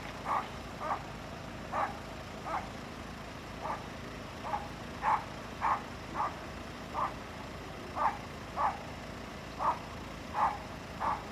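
A dog barking over and over in short, sharp barks, about one to two a second at uneven intervals, over a steady background hum.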